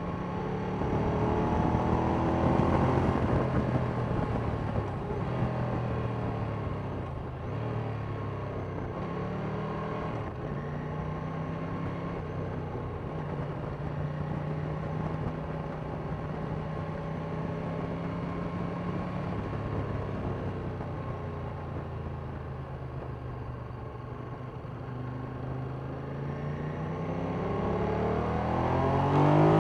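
Sport motorcycle engine heard from on board while riding, the revs climbing about two seconds in and again near the end, with steadier running in between, over a rush of wind and road noise.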